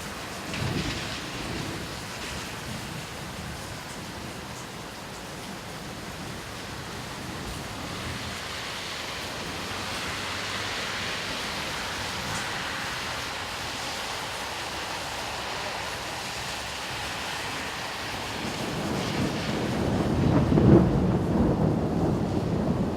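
Steady rain with thunder: a short low rumble about a second in, then a louder, longer thunder roll building over the last few seconds. A hiss swells and fades in the middle.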